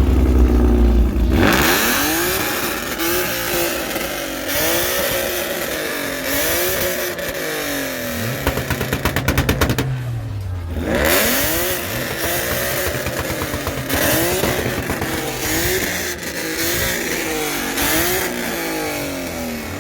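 3.7-litre V6 Mustang with a straight-piped exhaust being revved over and over, each rev climbing and dropping back, with a short break about ten seconds in.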